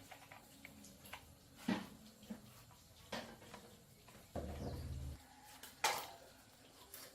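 Metal parts clinking and knocking together in a few separate strikes, with a short low buzz of under a second about four and a half seconds in.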